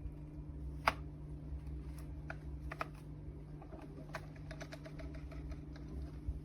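A series of light clicks and taps, one sharp click about a second in and a cluster in the middle, over a steady low hum.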